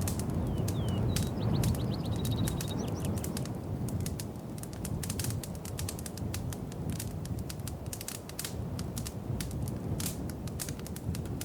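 Wood fire in a fireplace crackling, with many quick sharp pops over a steady low rumble. A small bird trills briefly in the first few seconds.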